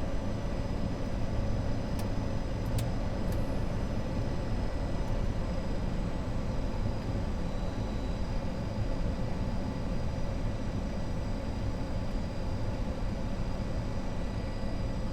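Steady cockpit noise of an Avro RJ100 four-engined jet on final approach in landing configuration, gear down and flaps 33: a rushing hum of airflow and turbofan engines with faint steady high-pitched tones. A few light clicks come about two to three seconds in.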